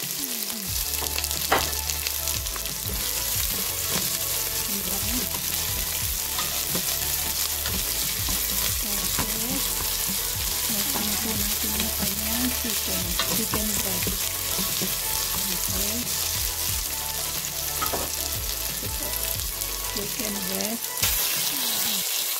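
Chopped garlic, onion and ginger sizzling in hot oil in a stainless steel pot as they are sautéed, a steady frying hiss with a few sharp clicks.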